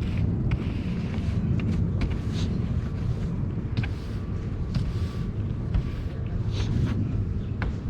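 Snow being brushed and scraped off a car, a few short scraping strokes over a steady low rumble.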